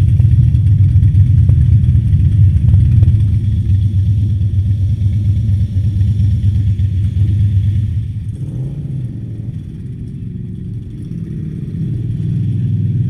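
Motorcycle engine running with a low, pulsing rumble at low speed, easing off about eight seconds in and building again towards the end.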